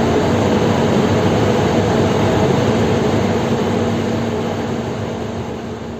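A heavy engine running steadily with a constant hum under dense mechanical noise, fading out over the last couple of seconds.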